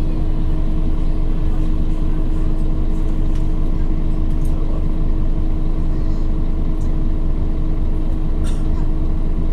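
Scania OmniCity city bus heard from inside the cabin: a steady engine drone whose pitch doesn't change, over a low rumble, with a few faint clicks and rattles.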